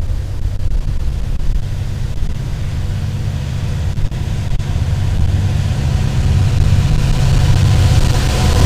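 Two diesel freight locomotives approaching, their low engine rumble growing steadily louder.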